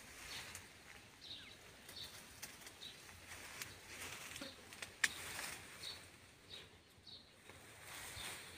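Bird chirping: short high chirps repeating about once a second, over faint rustling, with one sharp click about five seconds in.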